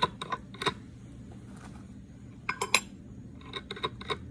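Small steel parts clinking and tapping together in a run of sharp clicks, louder ones about two and a half seconds in: the nut, crankshaft installer tool and small metal rods being handled against the engine case.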